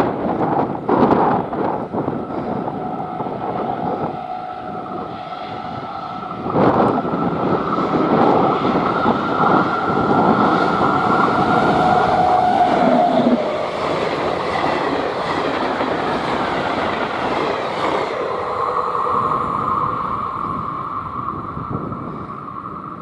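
Indian Railways WAP-7 electric locomotive and its train of milk tank wagons and coaches passing close at speed, wheels clattering over the rails. It is loudest from about seven to thirteen seconds in as the locomotive goes by, then the rolling of the train fades as it moves away.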